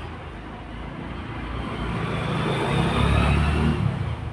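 A motor vehicle passing by: its engine rumble grows louder, is loudest about three seconds in, then fades away.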